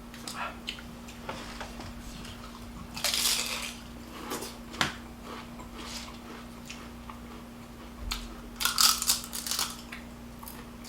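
Close-up mouth sounds of someone chewing a meal of rice, greens and chicken, with a few louder crunchy bites, the loudest about nine seconds in. A faint steady hum runs underneath.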